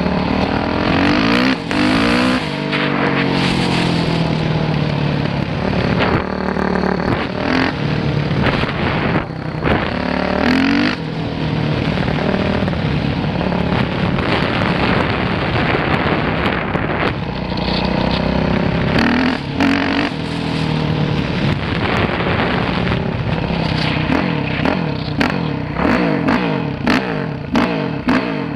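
Dirt bike engine being ridden hard, its pitch repeatedly climbing and dropping as the throttle is opened and closed through the gears, with scattered clicks and knocks.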